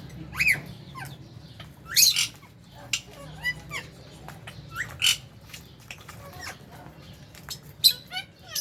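Flock of lovebirds calling in an aviary: short, scattered chirps that sweep up and down in pitch, with louder calls about half a second in, around two seconds, around five seconds and a quick run near the end.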